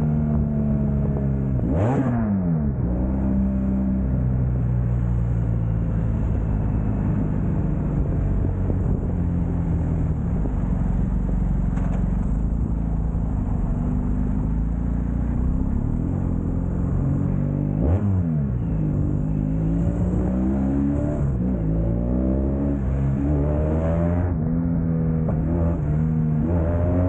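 Motorcycle engine running at highway speed, its pitch rising and falling with the throttle. The engine note drops sharply and climbs back twice, near the start and about two-thirds of the way through.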